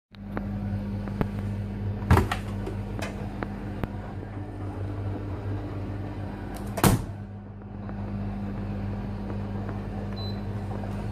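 Washing machine spinning with a stone loose in the drum: a steady motor hum, with two loud bangs about two seconds in and again about seven seconds in, and lighter clicks and knocks in between.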